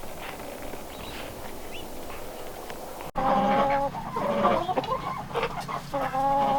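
Hens clucking and making drawn-out calls, starting abruptly about three seconds in; before that only faint, scattered calls.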